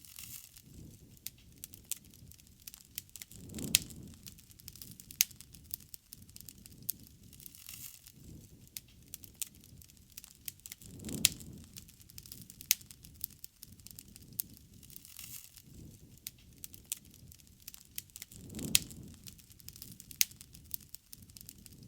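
Wood fire burning, with irregular sharp crackles and pops over a low rumble of flame. A deeper rumbling swell rises and fades three times, about every seven or eight seconds.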